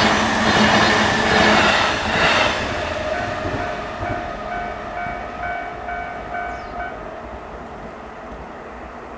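Electric train passing over a Japanese level crossing, loud rumbling and clattering for the first two and a half seconds, then fading. The crossing's electronic warning bell is then heard ringing about twice a second before it stops about seven seconds in, as the crossing clears.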